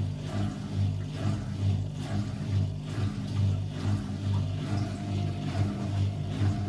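Constructa Energy 1000s washing machine running: a steady motor hum with a rhythmic swish that rises and falls a little more than once a second as the drum turns.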